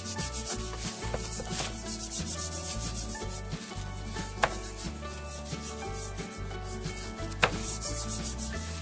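Hands rubbing coarse salt into the scaly skin of a large rainbow trout: a repeated gritty scraping, with two sharp clicks about halfway through and near the end. Quiet background music runs underneath.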